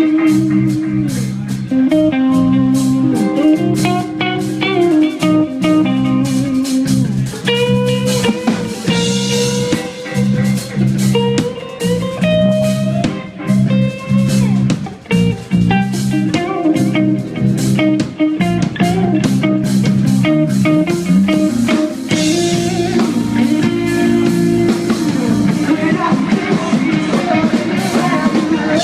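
Live band playing a blues-rock number, with a repeating guitar riff over drums and cymbals.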